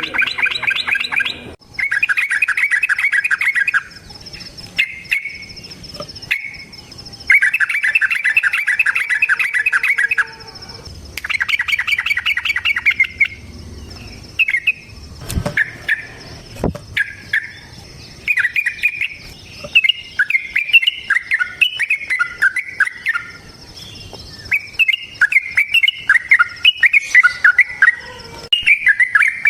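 Yellow-vented bulbul (trucukan) singing: rapid chattering runs of repeated notes, each lasting about two seconds, in the first half, then a long stretch of varied, warbling phrases.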